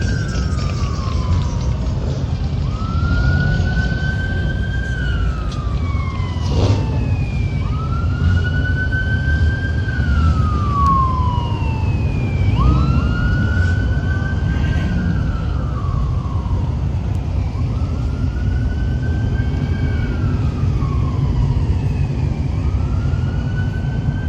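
Police siren on a slow wail, rising, holding, then falling about every five seconds, over a steady low rumble.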